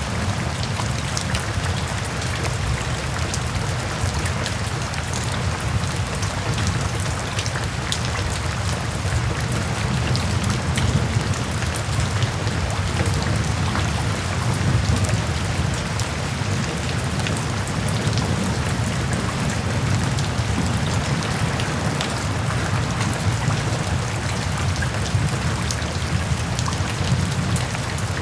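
Steady rain falling, a constant shush with many fine drop ticks over a deep low rumble.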